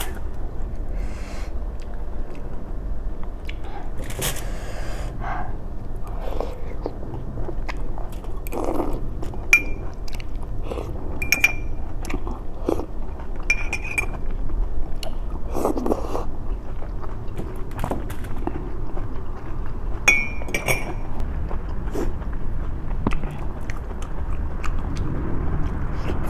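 Close-miked eating: chewing and biting with wet mouth sounds, and utensils clinking against dishes a few times, over a steady low hum.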